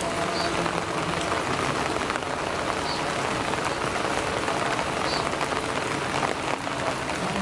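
Steady rain falling on broad lotus leaves: an even hiss dotted with many small, sharp ticks of single drops.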